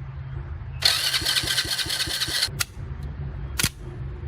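Small ATV's electric starter cranking the engine for about a second and a half as battery positive is jumped across with a wire, with rapid even pulses under a whine; it cuts off, followed by two sharp snaps of sparking from the jumper contact.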